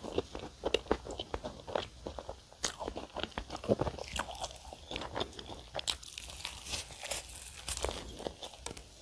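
Close-miked chewing and biting of a flaky layered pastry filled with whipped cream and strawberries: irregular soft crunches and crackles, with another bite near the end.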